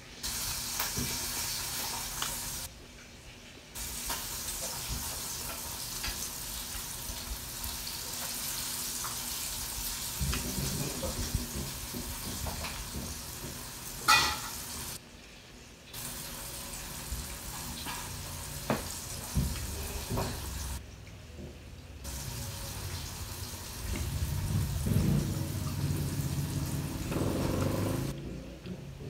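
Close-up chewing of crispy fried calamares, a crackly crunching with wet mouth sounds, and gulps of water about halfway through with one sharp click.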